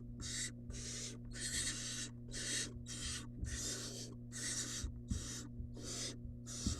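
Barn owl nestling's rasping, hissing begging calls, repeated in a steady series about twice a second.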